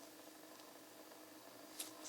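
Near silence: faint room tone with a low steady hum, and one light click near the end.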